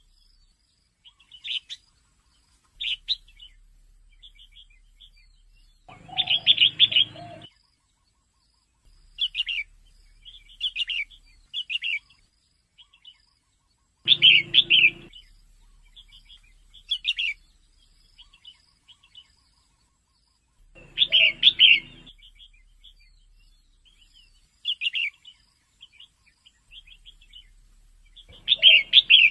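Female red-whiskered bulbul calling in short, chirpy phrases. A louder burst of calls comes about every seven seconds, with softer chirps in between.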